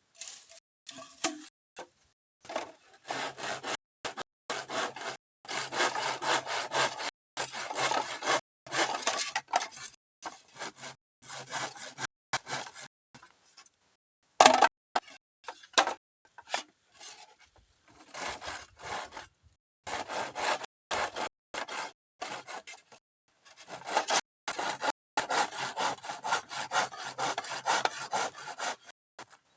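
Saw cutting through bamboo by hand: runs of quick back-and-forth strokes broken by short pauses, with the longest runs of sawing about five seconds in and again near the end.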